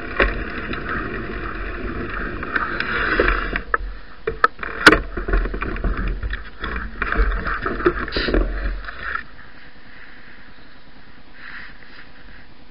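Bicycle on the move: tyre rumble on a snowy road with rattles and sharp knocks, the sharpest about five seconds in. About nine seconds in it gives way to a quieter steady noise.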